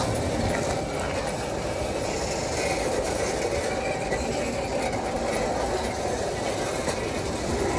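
Loaded container wagons of a long freight train rolling past, a steady noise of wheels running on the rails.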